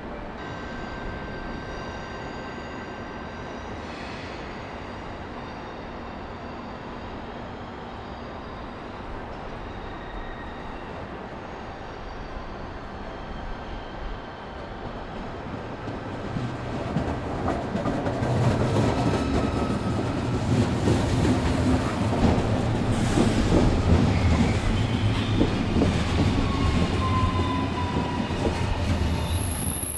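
Train rolling in along a station platform: a low rumble with wheel clatter that builds up from about halfway through, with a falling wheel squeal near the end and a shrill high brake squeal just at the close.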